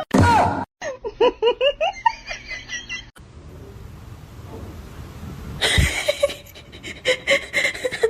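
People laughing in quick repeated bursts, with a quieter stretch of noise in the middle before the laughter starts again.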